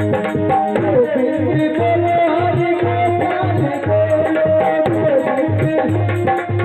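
Devotional aarti music: tabla playing a steady rhythm of low strokes under a sustained, gliding melody.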